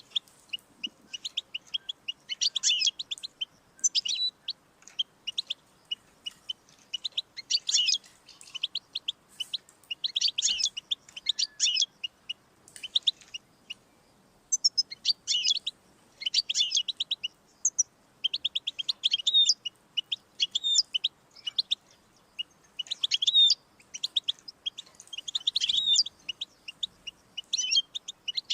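European goldfinch singing: long runs of rapid, high twittering and trilling notes, broken by brief pauses between phrases.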